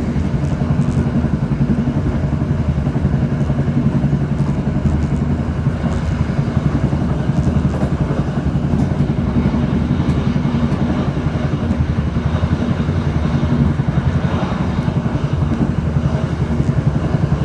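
An engine running steadily at a constant speed, with a low pitched drone and rapid, even pulsing and no change in speed.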